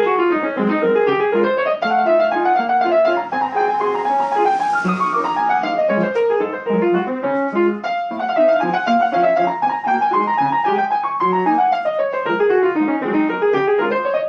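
Piano played in fast running passages, with scales and arpeggios sweeping up and down the keyboard throughout.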